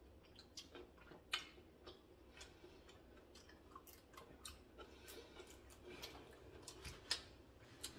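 Quiet eating sounds: soft chewing with faint, irregular mouth clicks and smacks, a couple slightly louder about a second in and near the end.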